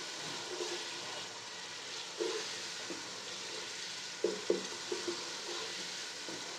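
Onion-tomato masala sizzling in oil in a non-stick pot as it is fried down (bhunai), stirred with a wooden spatula. The spatula scrapes and knocks against the pot a few times, most sharply around four and a half seconds in, over a steady sizzle.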